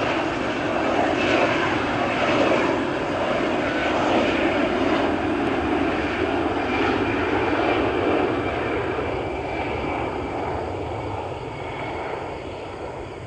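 Jet noise from an arriving McDonnell Douglas DC-9's rear-mounted Pratt & Whitney JT8D turbofans, a loud steady roar that fades over the last few seconds.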